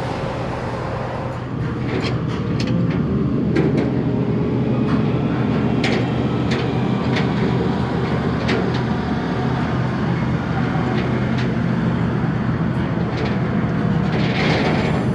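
A vehicle running with a steady low drone, with scattered clicks and rattles over it.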